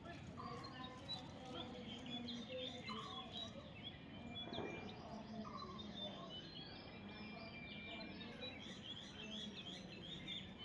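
Faint bird chirping: many short, high chirps scattered throughout, over a low steady background noise.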